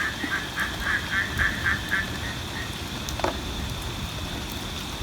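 An animal calling in a rapid run of short, evenly spaced calls, about four a second, that stops a little past two seconds in. One short falling call follows about three seconds in, over a steady hiss of rain and a thin high steady tone.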